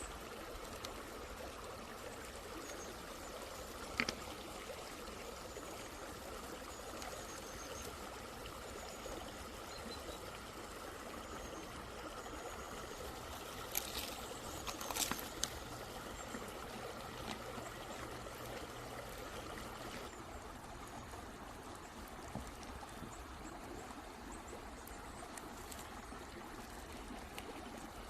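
A stream flowing steadily, with a sharp click about four seconds in and a few more clicks in the middle.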